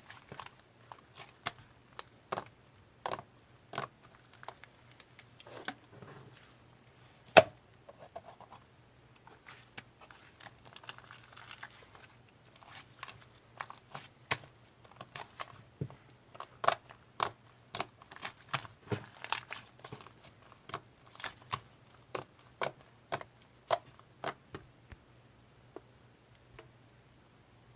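Irregular crinkling and tearing of a thin material, broken by many sharp clicks, thinning out near the end, over a faint steady low hum.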